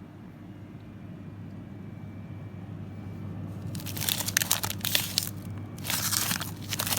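Plastic grocery bags crinkling and rustling in bursts as they are handled, starting about halfway in. Before that only a steady low hum is heard.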